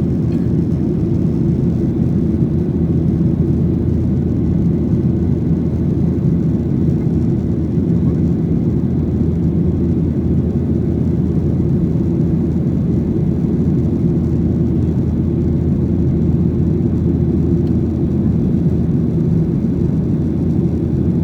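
Steady low rumble of a Boeing 737-800's CFM56-7B jet engines and airflow, heard from inside the passenger cabin. It is loud and even, with no change in pitch or level.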